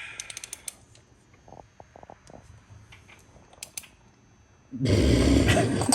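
Ratchet wrench clicking in quick strokes, then a few light metallic knocks. About five seconds in, a sudden loud rush of noise sets in and lasts about a second.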